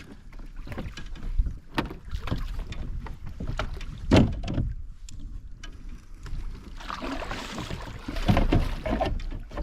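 Handling sounds of a kayak on the water: irregular knocks and thumps over a low rumble, with a louder rushing wash from about seven to nine seconds in.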